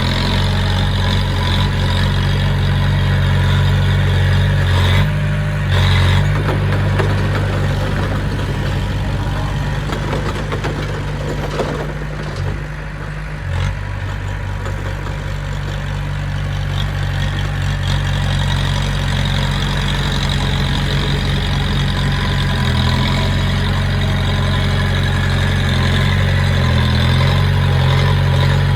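Diesel engine of a heavy earthmoving machine running steadily at low revs, easing off briefly about halfway through.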